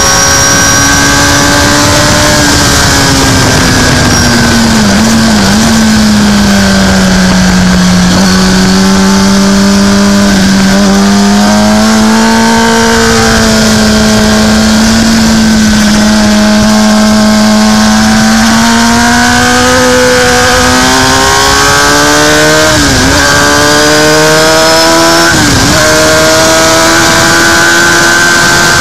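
Racing motorcycle engine at high revs, heard from an onboard camera with wind rushing over it. The revs hold fairly steady through a long corner, then climb as it accelerates, broken by two quick drops about four and six seconds before the end where it shifts up a gear.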